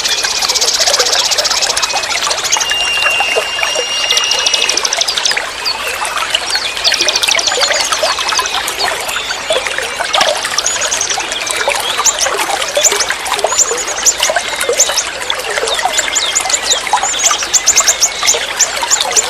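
Flowing forest stream trickling steadily, with many songbirds chirping and trilling over it in rapid, repeated high notes. A held whistled note comes in briefly near the start.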